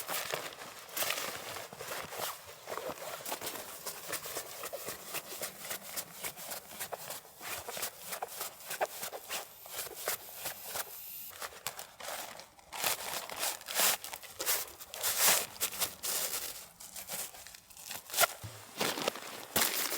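Irregular rustling and crinkling of handled material, with many small sharp clicks, busier in the second half.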